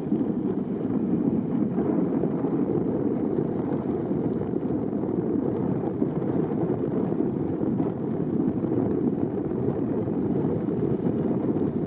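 Steady rumbling noise of a boat under way, with wind on the microphone.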